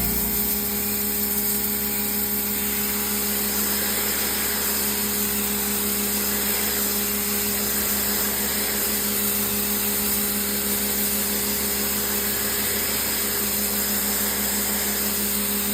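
Pressure washer's motor and pump running steadily with a constant hum and hiss.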